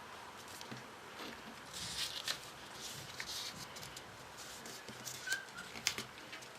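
Hand-folded paper rustling and crinkling in short, irregular bursts, with a few sharp little ticks, as origami paper modules are creased and handled.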